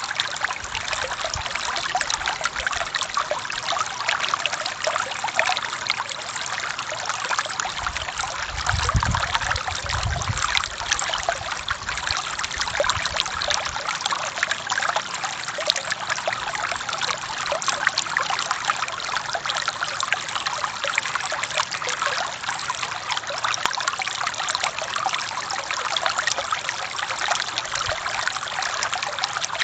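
Forest stream flowing and trickling over rocks in a steady, even rush. A brief low rumble sounds from about eight to twelve seconds in.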